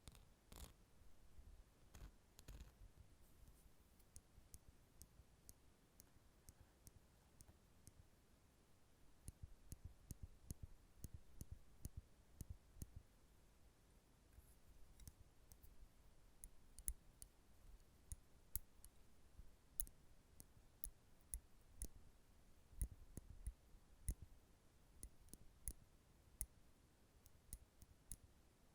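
Metal nail clippers making faint, irregular clicks. The clicks are sparse at first and come more thickly from about nine seconds in.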